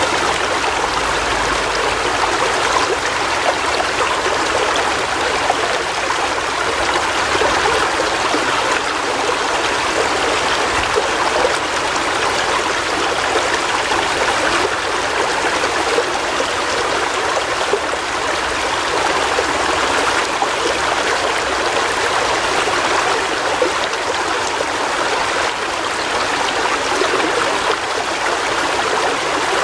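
River water flowing and splashing over rocks, a steady rushing with no change in level.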